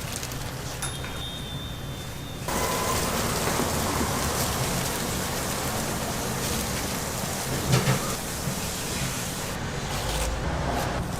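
Hot oil sizzling steadily in a deep fryer, a dense rain-like crackle, which becomes louder about two and a half seconds in. A couple of brief low knocks come near the end.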